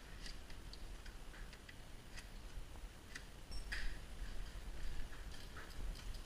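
Irregular light clicks and ticks, the loudest a little under four seconds in, over a faint low rumble.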